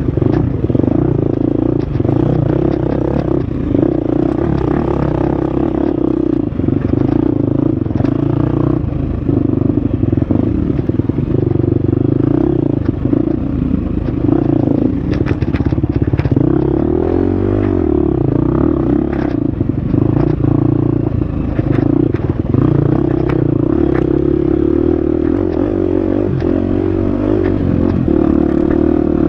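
Husqvarna FX 350 four-stroke single-cylinder dirt bike engine running under load on a trail ride, the revs rising and falling with throttle and gear changes, with scattered clatter and knocks from the bike over rough ground.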